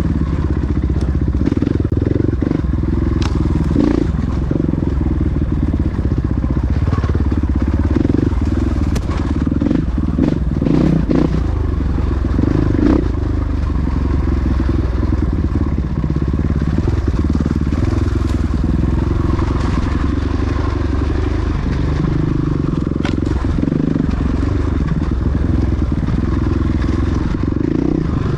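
Motocross bike engines running and revving, their pitch rising and falling as the bikes ride.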